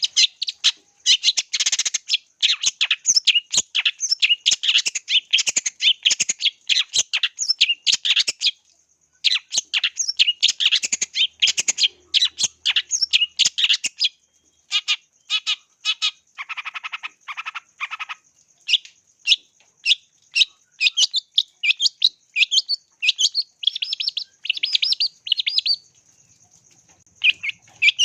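Long-tailed shrike (cendet) singing a fast, continuous stream of sharp chattering and whistled notes in long runs, broken by a few short pauses. Around the middle comes a short series of lower, harsher notes.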